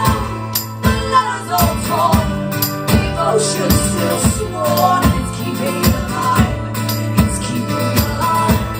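Live band music mid-song: strummed guitar with a regular beat and a melody line over it.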